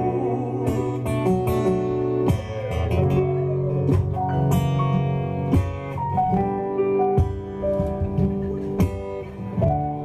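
Acoustic guitar playing an instrumental passage of a live song, strummed and picked chords with no singing.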